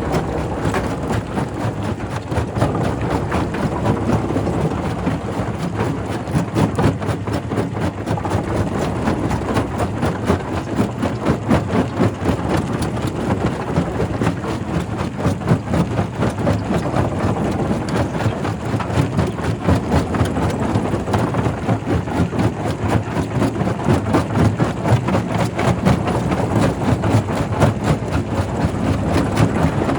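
Quarry primary rock crusher running, with rapid, continuous clattering and cracking of stone over a steady machinery hum.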